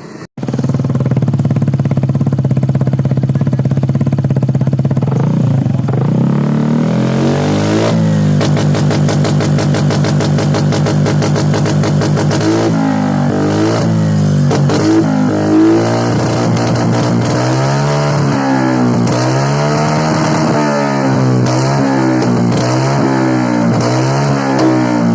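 Vespa Sprint 150 i-get's single-cylinder four-stroke engine running through a Best3 full-system racing exhaust. It idles steadily, then revs up and holds a higher speed. About halfway through it starts rising and falling in pitch again and again, about once a second, as the throttle is blipped in a sound check of the new exhaust.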